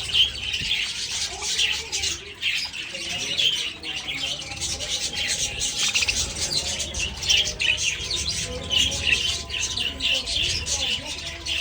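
A large flock of budgerigars chattering and chirping all at once, a dense unbroken mass of overlapping calls.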